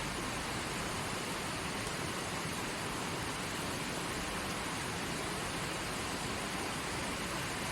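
Forest stream running over rocks: a steady, even rush of water.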